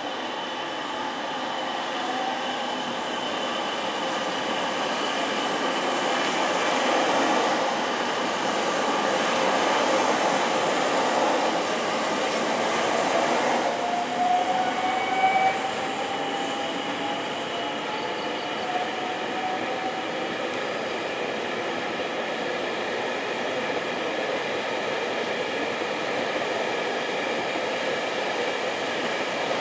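JR Freight M250 series electric container freight train pulling away and accelerating past the platform: a steady rumble and rattle of wagons rolling by, with a slowly rising whine about halfway through.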